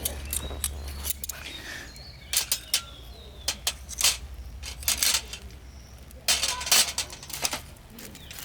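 Irregular sharp clicks and clinks, a dozen or so scattered unevenly, over a low steady hum, with a faint bird chirp or two.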